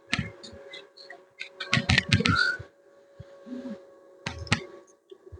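Clicks and knocks of mounting hardware being handled while a solar panel and lamp are fitted to their studs on a pole. There is a dense cluster of knocks about two seconds in and two sharp knocks near the end.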